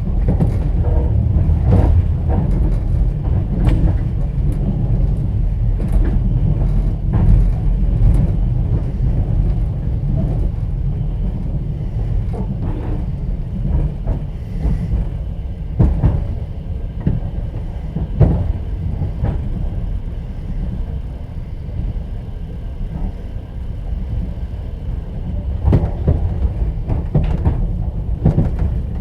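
Inside a moving passenger train's sleeper carriage: a steady low rumble of the running train, with irregular sharp knocks and clacks from the wheels and the carriage.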